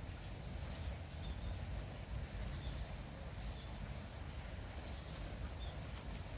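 Light, steady rain with a low rumble underneath, and a few short bird chirps now and then.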